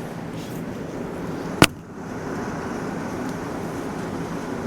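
A single sharp crack from the 1936 Ford's body about a second and a half in, over a steady background hum. It is a crunchy noise that comes from the old floor pan rather than the frame.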